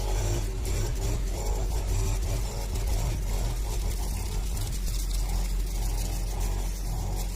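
Grass cutter's small engine running steadily, with its level wavering a little.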